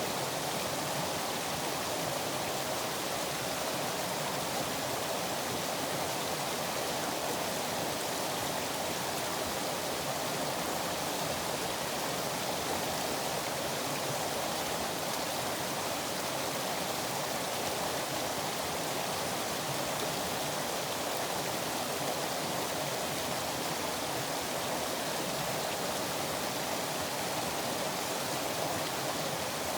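River water rushing in a steady, unbroken hiss with no changes.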